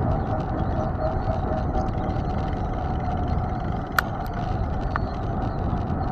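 Mountain bike rolling along: steady wind and tyre noise with a faint steady hum, and a sharp click about four seconds in and a softer one a second later.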